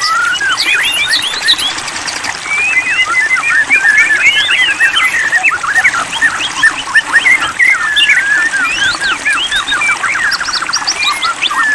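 White-rumped shama (murai batu) singing a fast, varied song of clear whistles and quick chirps sweeping up and down, with a rapid trill near the end.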